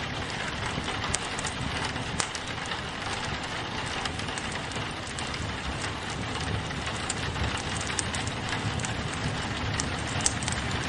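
Steady rain pattering on a window mixed with a wood fire crackling in a fireplace, with scattered sharp pops, the sharpest one near the end.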